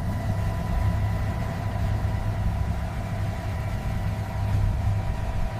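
Vehicle engine idling steadily: a low drone with a faint, steady whine above it.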